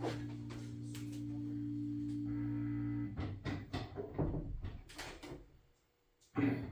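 LG washing machine with a steady low motor hum that stops about three seconds in, followed by scattered clicks and knocks from the machine being handled or starting up.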